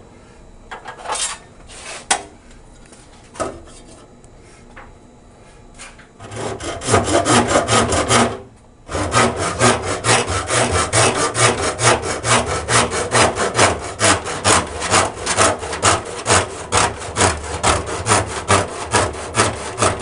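Hand saw cutting through plastic drain pipe. A few knocks of handling come first, then sawing starts about six seconds in, stops briefly, and goes on in steady back-and-forth strokes, about two or three a second.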